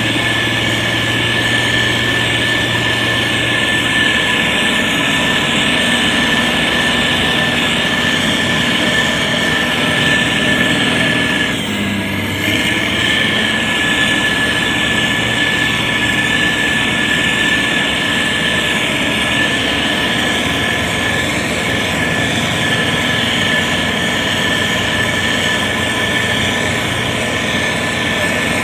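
Heavy motor grader's diesel engine (SANY STG190C-8S) running steadily, with a thin, high, steady whine over the engine noise. There is a brief break about twelve seconds in.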